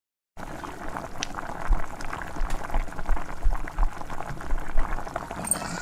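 Pot of chicken curry boiling, a dense crackle of small bubbles popping. It cuts in abruptly just after the start.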